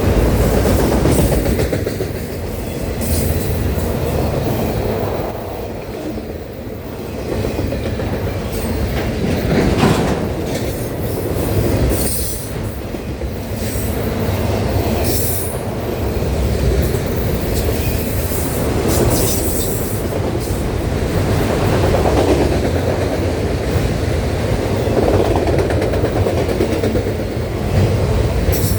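Intermodal freight cars of a CSX train rolling past with a steady rumble and wheel clatter, with brief high wheel squeals scattered throughout.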